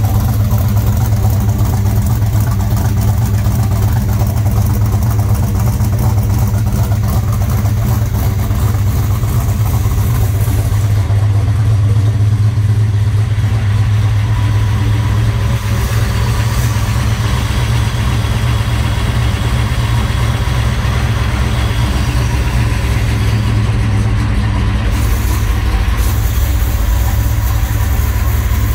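1969 Chevelle SS 396's big-block V8 on Holley Terminator Stealth fuel injection, idling steadily after tuning.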